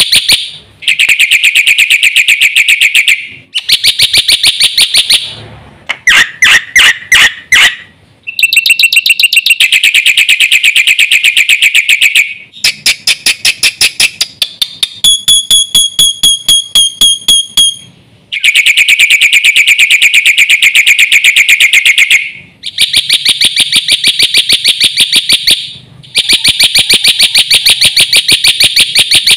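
Jalak putih (black-winged starling) singing loudly in phrases of a few seconds, each a fast string of repeated high notes, with short pauses between phrases. About halfway through comes a run of clearer, evenly spaced whistled notes.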